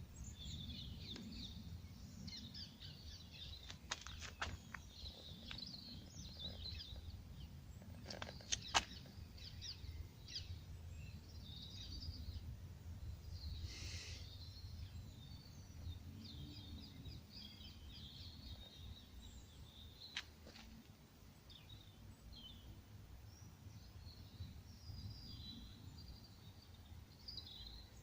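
Small birds chirping and calling over a steady low rumble, with a few sharp clicks, the loudest about nine seconds in.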